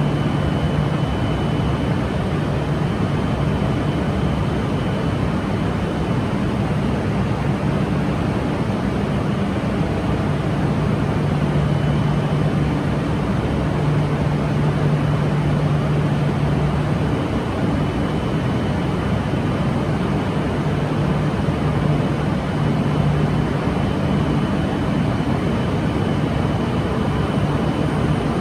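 Steady rumble and low hum of a Shinkansen train at the station platform, the hum coming and going without rising in pitch.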